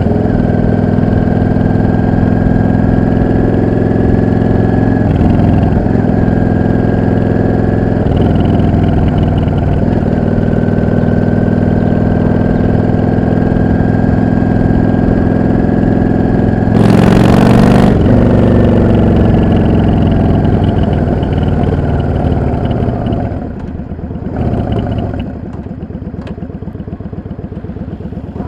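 Yamaha XVS 650's air-cooled V-twin running under way, with short breaks in the note a few times in the first ten seconds, a brief loud rush about two-thirds through, then the engine dropping back to a quieter, lower run near the end.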